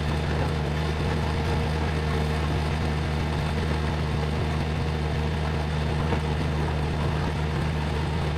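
Engine of an RS06-2 compact skid steer loader running steadily at a constant speed.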